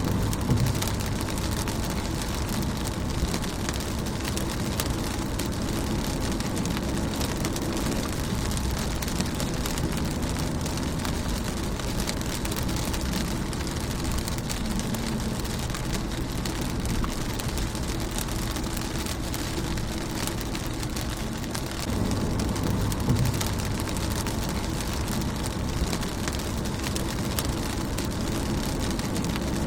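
Rain falling on a car's windshield, a steady patter of many small drop clicks over a hiss. A low rumble swells briefly near the start and again about 22 seconds in.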